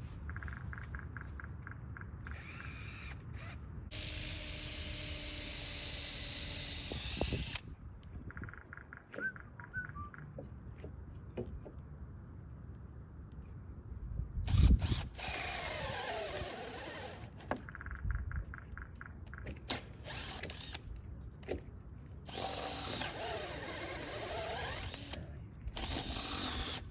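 Power drill running in several separate runs, the longest about three seconds. Between the runs there are stretches of rapid ratchet-like clicking, and one sharp knock about halfway through.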